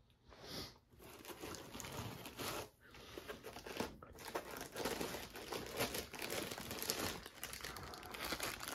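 Packaging crinkling and rustling as it is handled by hand during unpacking, with some tearing, in a small room.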